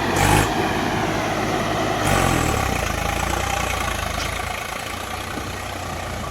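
Tractor diesel engine running hard, revving up about two seconds in and then holding steady as it slowly fades.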